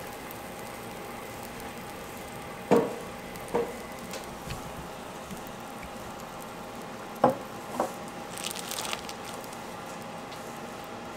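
Korean street toast frying in butter on a flat griddle, sizzling steadily. Sharp knocks come in two pairs, about three seconds in and again about seven seconds in, with a brief scrape shortly after.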